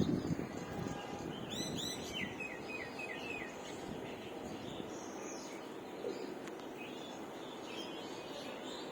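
Songbirds calling over a steady background hiss: about a second and a half in, a quick run of high falling notes, then five repeated chirps, about four a second; fainter chirps near the end. A few low bumps at the very start.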